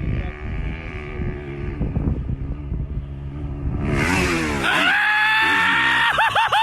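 Motorcycle engine running with a low rumble, then revving hard about four seconds in and holding a high, slowly rising pitch, with quick up-and-down blips near the end.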